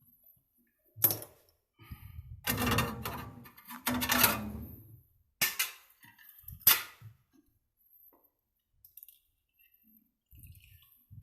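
Metal tools and parts being handled during refrigerator pipe repair: sharp clacks and knocks about a second in and twice more later, with two short rustling, scraping stretches in between.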